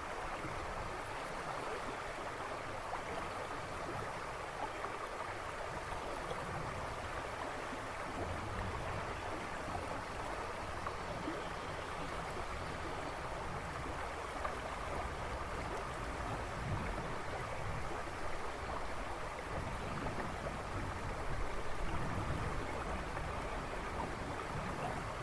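A river or brook rushing and babbling over stones in a steady, even flow.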